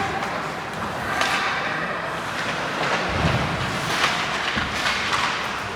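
Noisy game ambience in a sports arena, with scattered faint knocks and a low thud about three seconds in.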